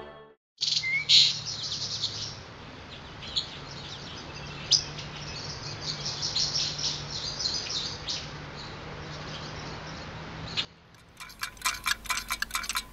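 Birds chirping and trilling over a steady outdoor hum. About eleven seconds in this cuts to a fast, even run of light clinking clicks.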